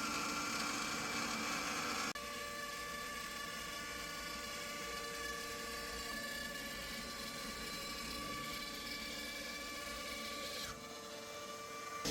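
DIY CNC router running, a steady whine of several held tones from its motors. The sound changes abruptly about two seconds in and turns slightly quieter near the end.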